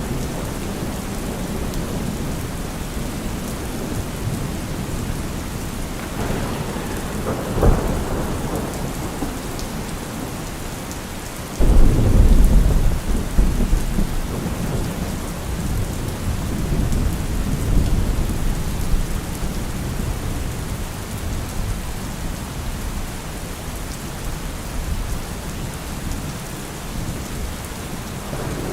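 Heavy rain falling steadily, with a deep low rumble: a short sharp surge about eight seconds in, then a sudden heavy rumble near twelve seconds that slowly dies away.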